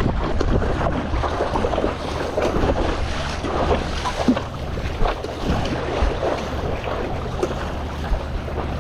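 Strong wind buffeting the microphone over water splashing and slapping around a stand-up paddleboard on a choppy sea, with irregular small splashes throughout.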